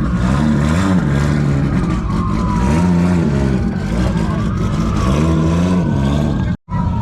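Car engines revving over and over, the pitch climbing and falling back every second or two. A fainter, higher tone glides up and down above them, and the sound cuts out for a moment near the end.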